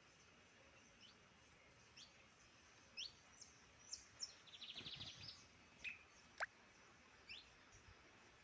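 Faint wild birds chirping: scattered short, high chirps, a rapid trill about halfway through, and one sharp sweeping note just after it, the loudest sound here.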